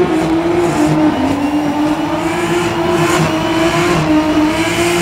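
A burnout car's engine held at high, nearly steady revs while its rear tyres spin in clouds of smoke. The pitch wavers only slightly as the driver holds the throttle.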